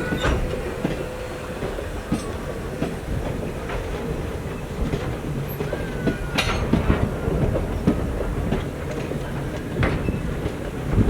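Rail train rolling past with a steady rumble, its wheels clicking irregularly over rail joints. A short wheel squeal comes about six seconds in, followed by a sharp clack.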